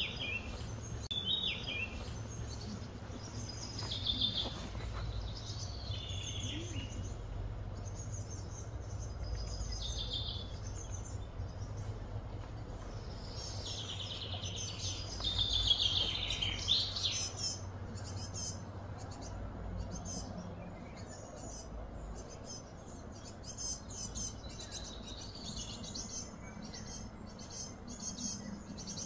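Wild birds chirping and calling in short repeated phrases, getting busier with rapid chirps in the second half, over a low steady hum.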